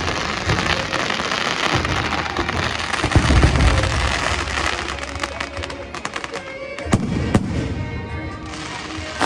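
Fireworks crackling and popping densely, with a low rumble about three seconds in and two louder bangs about seven seconds in. Music plays underneath.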